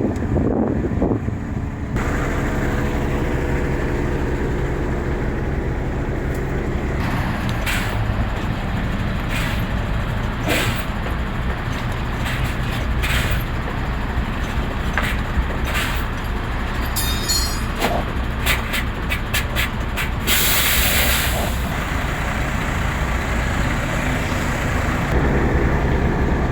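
Heavy diesel truck engine idling with a steady low hum and scattered clicks. About 20 seconds in comes a sharp burst of compressed air hissing, as from truck air brakes.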